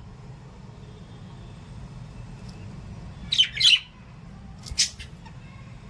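Small pet parrots giving short, high-pitched squawks: two calls close together about three and a half seconds in, then a third about a second later, over a steady low hum.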